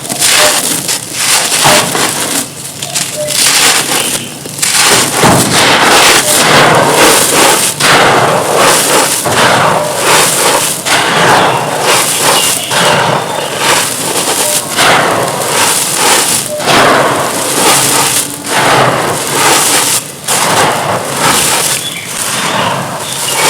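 Dry, dusty crumbly chunks being crushed and crumbled, a dense run of crunching and crackling with many small irregular snaps.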